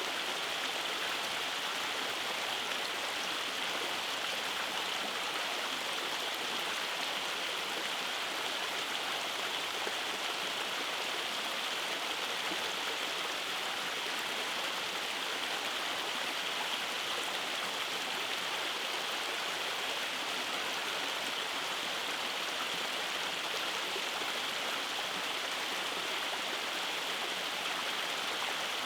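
Rainforest stream running over small cascades: a steady rush of flowing water, brightest in its upper hiss, unchanging throughout.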